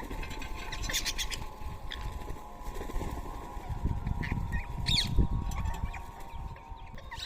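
Rose-ringed parakeets giving short, sharp screeching calls a few times, about a second in and again near five seconds, over a faint steady hum and low rumble.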